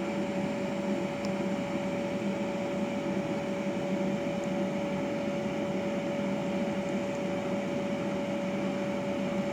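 A motor running steadily, a constant hum with a clear, unchanging tone over a haze of air noise.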